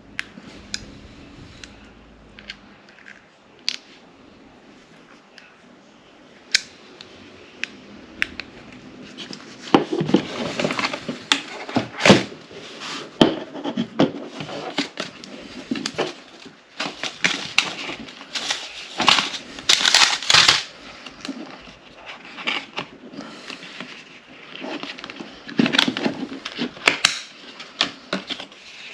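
Packaging being handled and opened by hand: a few sharp clicks at first, then irregular rustling from about ten seconds in.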